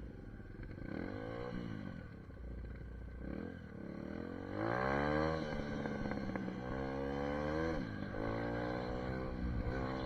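SSR 150 dirt bike's single-cylinder four-stroke engine under way. Its pitch rises four times and drops back after each, as the rider accelerates and shifts up through the gears.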